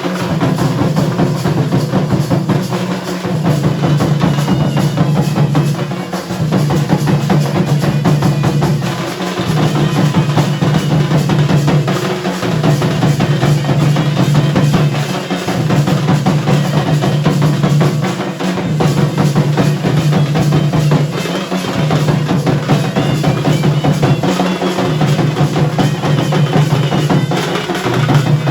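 Dhol and nagada drums beaten together in a fast, unbroken rhythm of dense strokes. The low, booming drum tone breaks off briefly about every three seconds.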